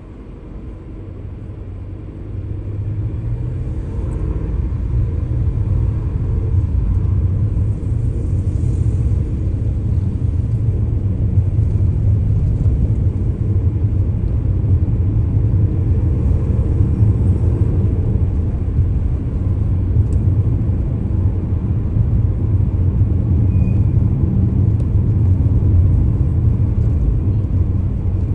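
A car driving, a steady low rumble of engine and road noise that grows louder over the first few seconds as it picks up speed, then holds steady.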